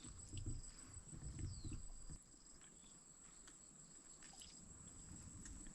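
Quiet outdoor ambience with a steady high-pitched insect trill, and a few soft low knocks and rustles in the first two seconds.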